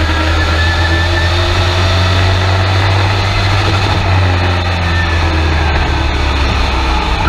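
Race truck engine running hard, heard from inside the cab, its pitch holding fairly steady with small rises and dips.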